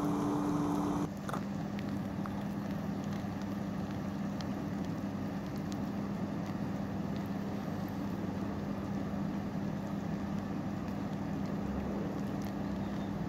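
Rain falling on a wet road and puddles: a steady hiss with faint scattered drop ticks, under a steady low hum. A second, higher hum stops about a second in.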